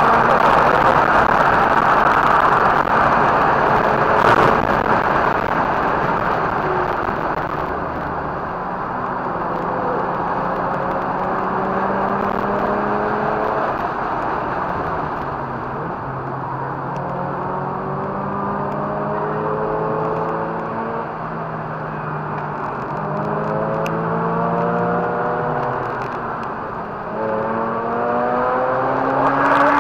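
Mazda RX-8's two-rotor Wankel rotary engine under hard driving, its pitch climbing again and again and falling back at each gear change, over a heavy rush of wind and tyre noise that is loudest in the first few seconds.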